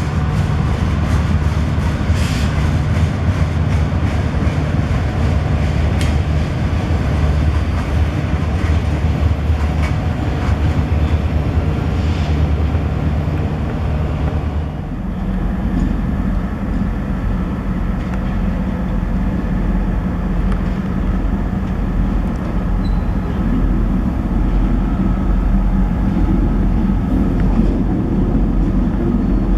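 Diesel train running on the tracks: a steady low engine rumble with a few sharp clicks from the wheels and rails. The engine note shifts about halfway through.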